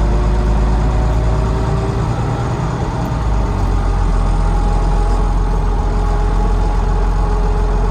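Volvo D9B diesel engine of a Volvo B9TL double-decker bus running under way, heard from the back seat: a steady low rumble with a whine over it that slowly rises in pitch. The whine is the noise the uploader hears each time the bus accelerates and cannot place, wondering whether it is the gearbox, the cooling fan or the axles.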